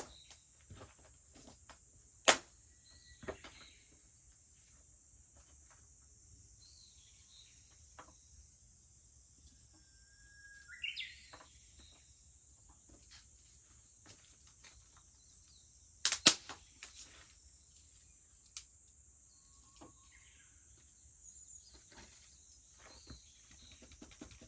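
Wood fire crackling, with a few sharp pops about 2 s in and a close pair near 16 s, over a steady high cicada drone. Near the middle a Japanese bush warbler sings once: a held whistle that breaks into a quick higher flourish.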